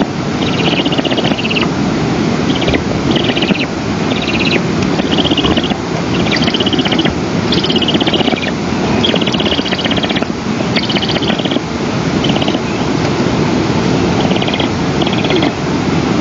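A bird calling in short bursts of rapid chattering notes, about once a second, over steady wind noise on the microphone.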